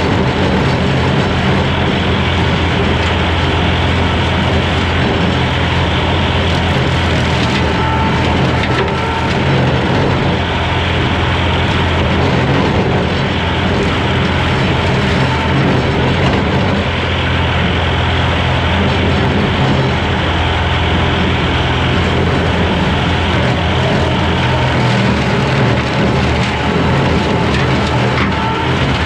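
Skid steer engine running steadily under load while its brush hog rotary cutter mows grass and brush.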